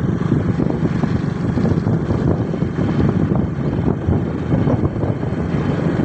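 Motorcycle running on the move, a steady low rumble with wind buffeting the microphone.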